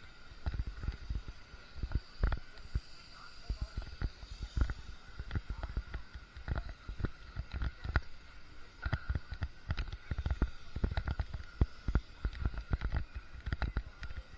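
Irregular low thumps and knocks, several a second, on a GoPro's microphone while its wearer walks, with a faint steady high tone underneath.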